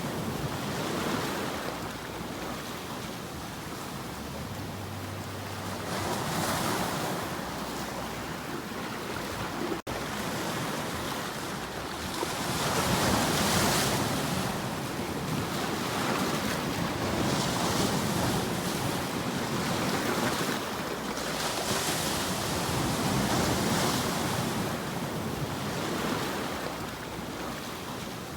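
Ocean waves washing onto a shore, swelling and falling back every few seconds over a steady hiss, with a momentary cut-out about ten seconds in.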